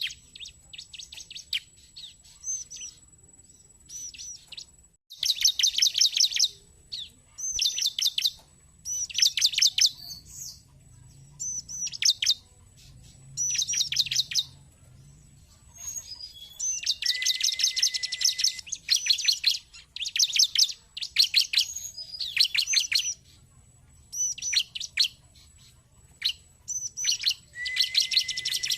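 Bar-winged prinia (ciblek) calling: short bursts of rapid, high, sharply rising chirps, about one burst every second or two, with a longer, denser burst about two-thirds of the way through.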